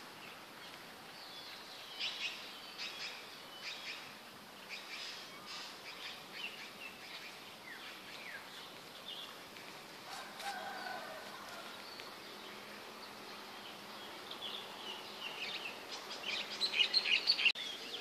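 Several birds chirping and singing in short, high calls, with a louder run of rapid chirps near the end.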